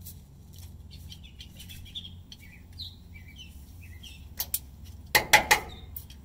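Songbirds chirping in short calls throughout. There is a brief sharp noise about four and a half seconds in, and a louder half-second burst of noise just after five seconds.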